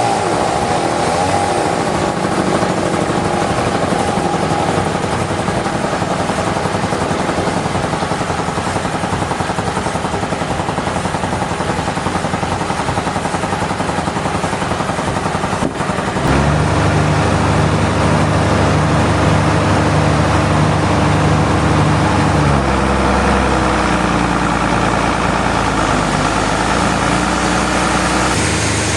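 Engine-driven sawmill machinery running steadily. Its engine note changes abruptly about sixteen seconds in and again about twenty-two seconds in.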